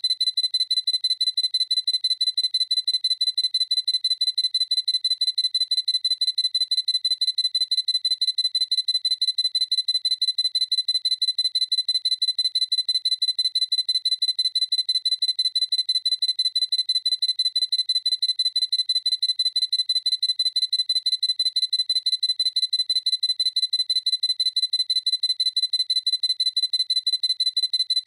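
Sony A7C camera's focus-confirmation beep, a high electronic tone repeated over and over in a fast, even string of short beeps, several a second, without change.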